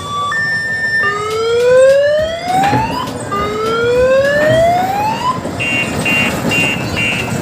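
Electronic siren of a mini tourist train: a two-note tone, then two rising whoops of about two seconds each, then a high beep pulsing on and off about twice a second.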